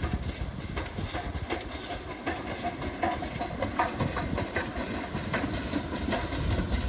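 Railway train rolling past, its wheels clicking irregularly over the rail joints.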